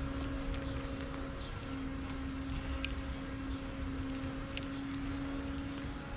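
A steady mechanical hum over a low rumble, like an engine running at a constant speed, with a few faint clicks.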